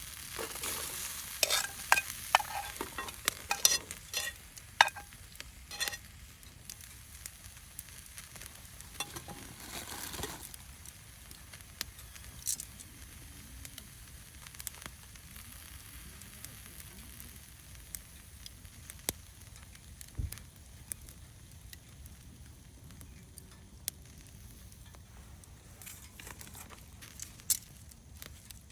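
Carrots sizzling over a campfire, with a utensil stirring and scraping through the first few seconds. After that comes a steady quiet sizzle with scattered pops.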